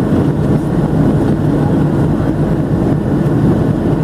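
Steady cabin noise inside a Boeing 737-700 in flight: the drone of its CFM56 jet engines and the rush of airflow, heavy in the low and middle range and unchanging.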